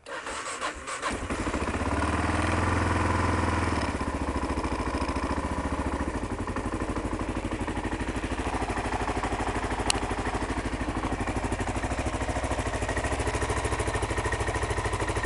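2001 Kawasaki KLR 650's single-cylinder four-stroke engine cold-starting on choke: it catches about a second in, runs a little louder and higher for a few seconds, then settles into a steady idle.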